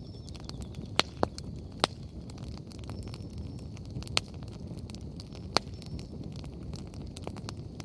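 Wood fire crackling, with a steady low rush underneath and five sharp pops from the burning firewood, three in the first two seconds and two more about four and five and a half seconds in.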